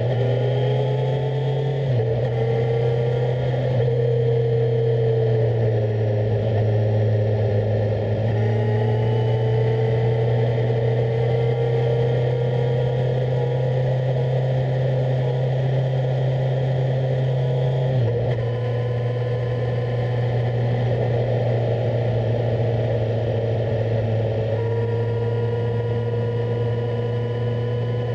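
On-board sound of a Kawasaki Z1000SX's inline-four engine running as the motorcycle rides along. Its pitch glides slowly and shifts in steps a few times.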